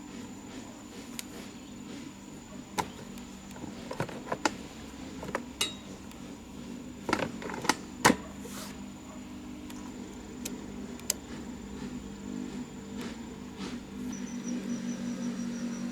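A steady low hum with sharp clicks and knocks scattered through it, a cluster of the loudest about halfway through.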